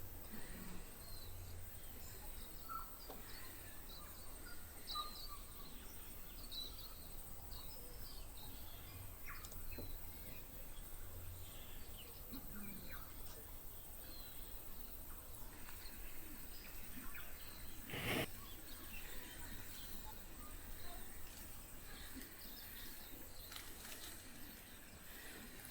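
Scattered faint bird chirps and calls over a low outdoor rumble, with one short, louder sound about 18 seconds in.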